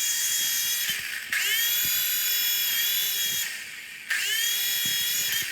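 Small electric motor of a toy RC helicopter whining as it spins the rotor, switched by a push button: the whine drops away twice and each time rises in pitch as the motor spins up again, then holds steady and high.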